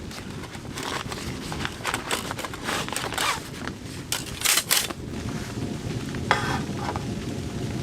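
Metal cookware and utensils clinking and scraping, with a short ringing clink a little after six seconds, over a steady low noise.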